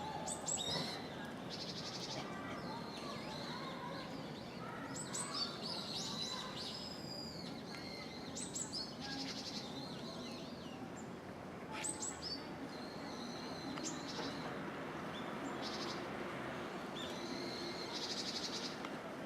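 Birds chirping and calling repeatedly: short high chirps, sweeping calls and a buzzy trill every several seconds, over a steady hum of background noise.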